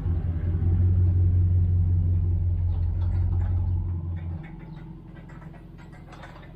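An engine running steadily with a low hum, then cutting off abruptly about four seconds in. Faint clicks follow.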